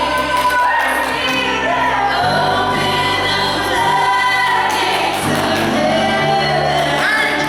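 Gospel music: a choir or group of singers, with female voices, singing over sustained bass notes from instruments.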